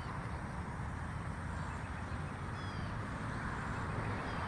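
A few short, faint, high chirps of small birds, each falling in pitch, over a steady rush of outdoor background noise.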